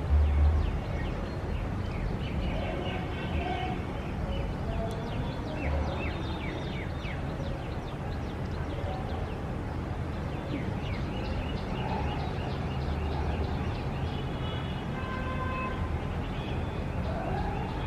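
Outdoor city ambience: many small birds chirping in quick, falling notes over a steady low rumble of traffic, with a brief louder low surge at the very start.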